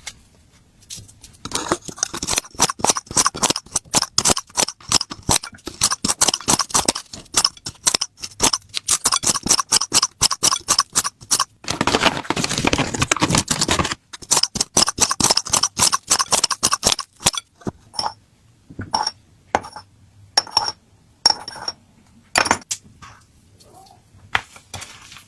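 A utensil clinking rapidly against a dish while cat food is mixed, with a few seconds of scraping in the middle. Later the clinks slow to single ringing taps, roughly one a second.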